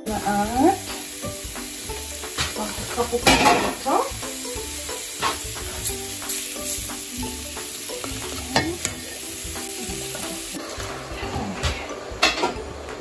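Chicken pieces frying with onions and spices in an enamel pot, sizzling steadily while a silicone spatula stirs and scrapes across the pot bottom several times. This is the chicken browning in the spiced onion base before any liquid goes in.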